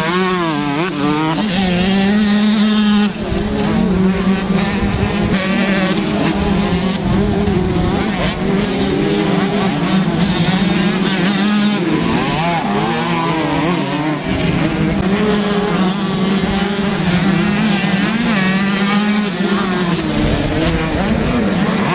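125 cc two-stroke motocross bike engines revving hard, the pitch rising and falling over and over without a break.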